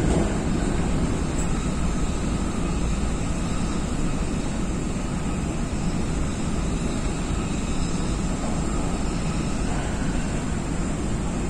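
MTR Tung Chung Line K-Train running between stations, heard from inside the car: a steady rumble of wheels and motors with no changes.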